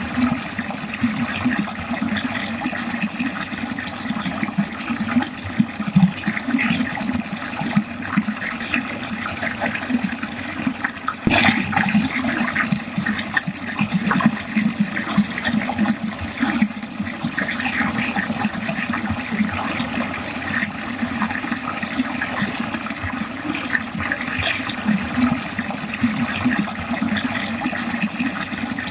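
Water running steadily down a drain, with a continuous rushing and a low, constantly shifting gurgle. A single brief click about eleven seconds in.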